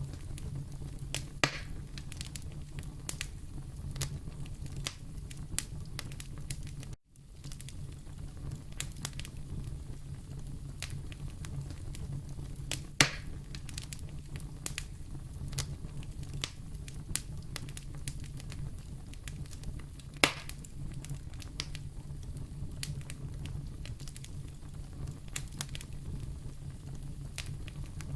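Wood fire burning in a fireplace: a steady low rumble with scattered crackles and three sharper, louder pops, about a second and a half in, near the middle and about two-thirds through. The sound cuts out for a moment about seven seconds in.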